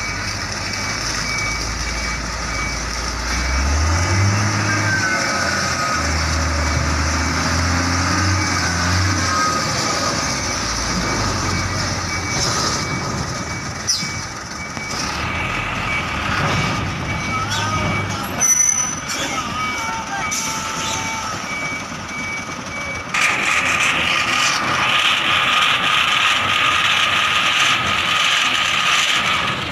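Heavy container truck engine running, with the low rumble strongest early on, and a regular high-pitched beeping that stops about two-thirds of the way through. A short sharp burst of noise comes a little past the middle.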